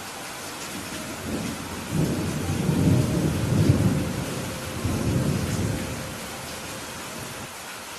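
Steady rain hiss with a roll of thunder: a low rumble builds about a second in, swells loudest over the next couple of seconds with a second swell after, then fades back to the rain.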